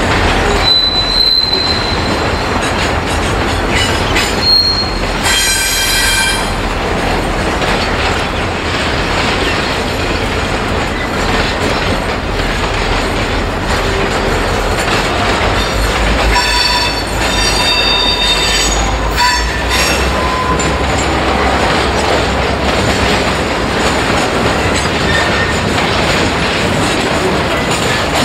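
Freight train of flat wagons loaded with steel coils rolling steadily past. Brief high-pitched wheel squeals come about five seconds in and again between about sixteen and twenty seconds in.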